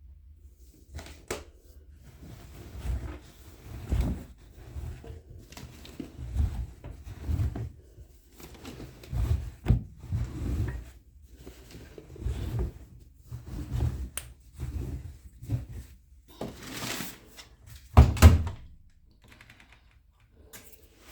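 A run of irregular thumps and knocks from things being handled, a second or so apart, with a louder double knock near the end.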